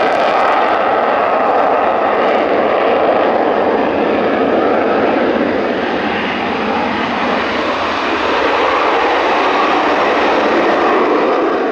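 Eurofighter Typhoon fighter jet's twin EJ200 turbofan engines, loud and continuous jet engine noise that holds steady.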